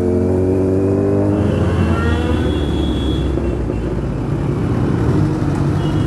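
Motorcycle engine running under way, its pitch rising slightly over the first second or so, then settling into a steady low rumble with rushing noise.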